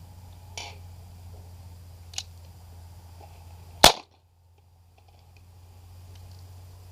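Two light clicks, then a single sharp .22 rimfire shot from a USFA Zip 22 pistol about four seconds in, firing Armscor ammunition. The Armscor load is one the shooter says has just not enough pop to cycle the pistol's action.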